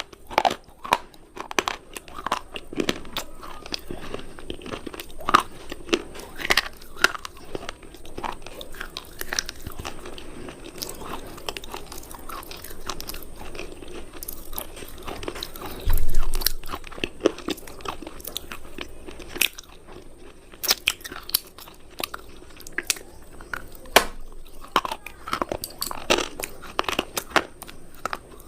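Hard cubes being bitten and chewed close to the microphone: many sharp, irregular crunches. There is a low thump about sixteen seconds in.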